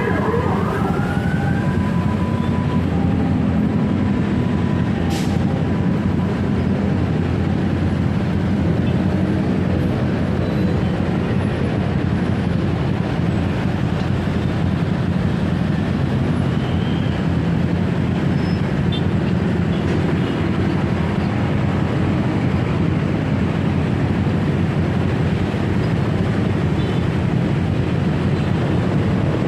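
Steady running noise of a motorcycle ride: engine hum mixed with wind and traffic noise. A few brief high tones near the start.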